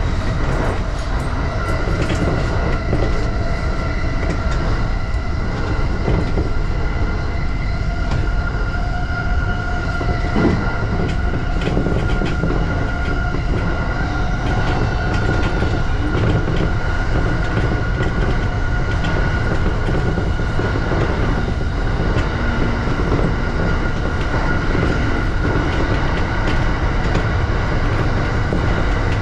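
E235 series electric train running on the line: a steady rumble of wheels on rail with a few scattered clacks and a steady high whine held through most of it.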